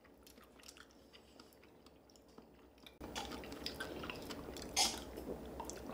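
Soft chewing and wet mouth sounds of people eating. They are very faint for the first three seconds, then louder, with one sharper wet sound about five seconds in.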